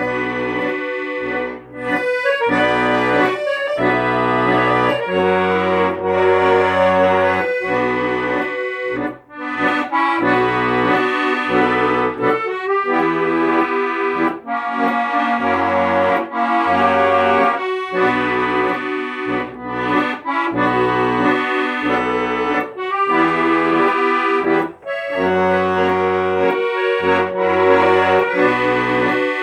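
Accordion playing an instrumental tune: held bass notes changing every second or two under a moving melody line.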